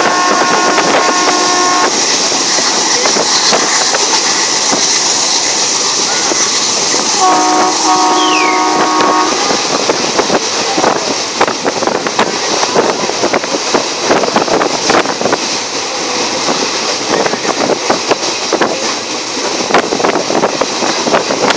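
Passenger train running, heard from aboard: steady rushing wheel and wind noise, with the train horn sounding twice in a multi-note chord, about two seconds each time, the second blast about seven seconds in. From about ten seconds on, a dense run of sharp clicks from the wheels over the rails.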